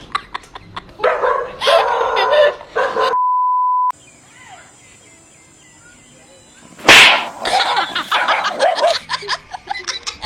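A dog barking amid people's voices. About three seconds in there is a short steady beep, and about seven seconds in a sudden loud noise.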